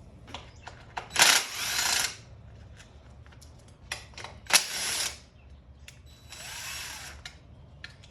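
Handheld power tool run in three short bursts of about a second each, the motor speeding up and winding down, spinning bolts out during a dirt bike teardown, with small clicks of parts and tools between the bursts.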